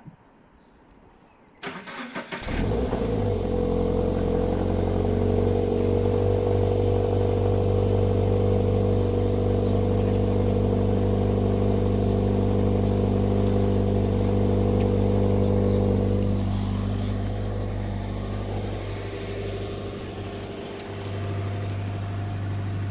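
Toyota GT86's flat-four boxer engine, heard at the exhaust from behind the car: the starter cranks briefly about two seconds in, the engine catches and idles steadily, then settles to a slightly lower, quieter idle about sixteen seconds in.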